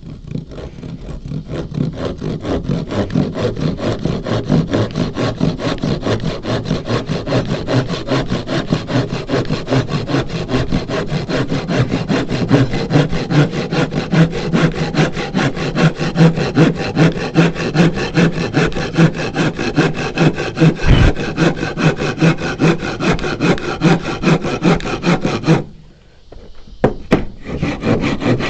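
Handsaw cutting through wood in a steady rhythm of back-and-forth strokes. Near the end the sawing stops for about a second, then starts again.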